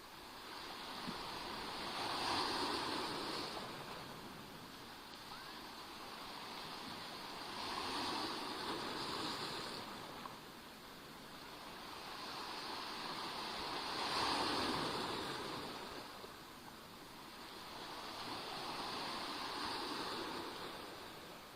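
Small sea waves breaking and washing on the shore of the Black Sea, each wash swelling and fading, about four in a row some five to six seconds apart.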